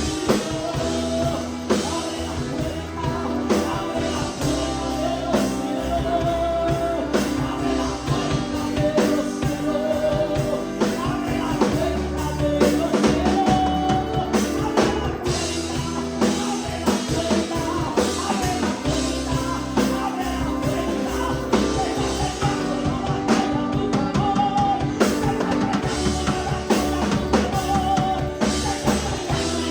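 Live worship band playing an upbeat Pentecostal chorus: drum kit, bass and guitar, with a voice singing the melody over it.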